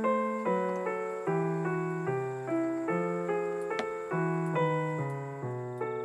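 Background piano music: a gentle melody of single struck notes over a bass line, each note fading after it is played, about two notes a second.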